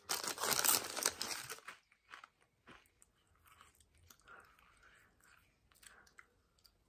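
A potato chip bitten and chewed: loud, dense crunching for the first couple of seconds, then quieter chewing with scattered small crunches.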